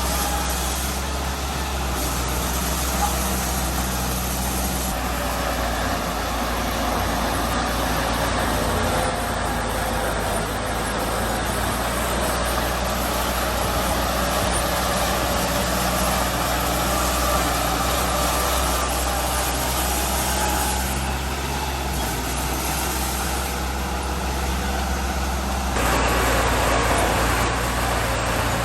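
Heavy diesel engine of earthmoving machinery running steadily under work, its note shifting a couple of times and growing louder near the end.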